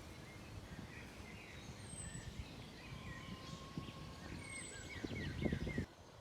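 Outdoor birdsong: a thin, high call that sweeps downward, repeated every few seconds, with other chirps and a short trill, over a low rustling rumble. About five and a half seconds in, a cluster of low knocks is the loudest sound, then everything drops abruptly.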